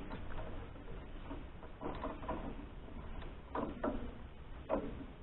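A few short metallic knocks and scrapes of a hand wrench loosening bolts on a sawmill's stop strap, spaced out by pauses.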